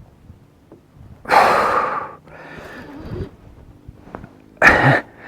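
A man breathing hard while fighting a fish on the rod. There is a loud forceful exhale just over a second in, a weaker breath after it, and a short grunt near the end.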